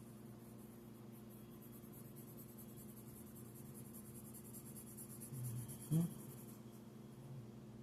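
Pencil scratching on paper in quick, repeated hatching strokes, with a faint steady hum underneath. A brief, louder low sound comes about six seconds in.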